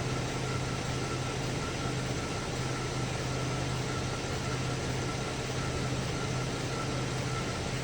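2010 Chevy Traverse's 3.6-litre V6 idling steadily with no misfire showing at the moment, though it has stored misfire codes for cylinders 1, 3 and 5.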